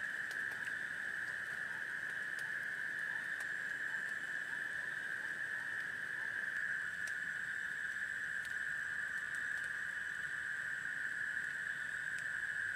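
Steady hiss of heavy rain, concentrated in a high narrow band, with scattered faint ticks of drops.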